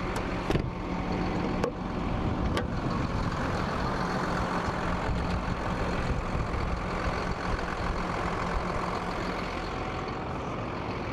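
Hino diesel truck engine idling steadily, with a few light clicks in the first few seconds.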